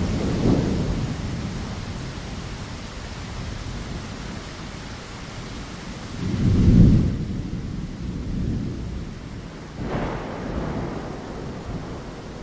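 Steady rain with thunder rumbling three times: a low swell just after the start, the loudest rumble about two-thirds of the way through, and a softer one near the end. The rain hiss thins a little after the big rumble.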